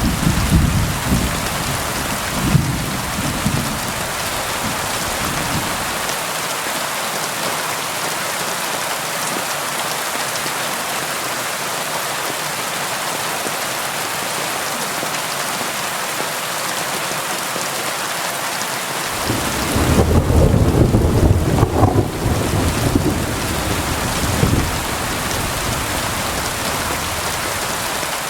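Steady rainfall with thunder: a low rumble dies away in the first few seconds, and a louder roll of thunder rumbles from about twenty seconds in for several seconds.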